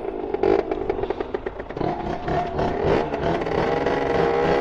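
Tuned two-stroke dirt bike with a 70cc Airsal kit and a handmade SCR Corse expansion exhaust, ridden with the revs rising and falling. There is some rattling in the first second.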